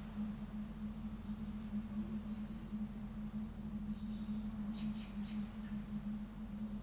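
Steady outdoor coastal ambience: a constant low hum over a soft low rumble. A few faint, high bird chirps come about four to five seconds in.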